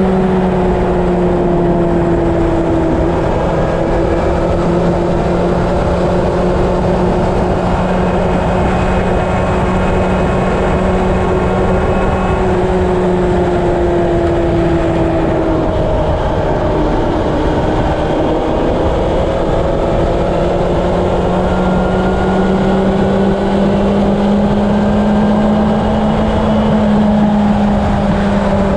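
Honda CB750 inline-four engine running steadily at highway cruising speed, its pitch sagging and rising slightly a few times, over constant wind rush.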